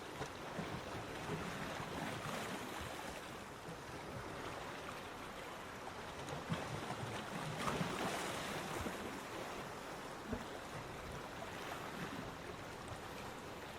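Surf washing onto a beach: a continuous rush of breaking waves that swells and eases every few seconds.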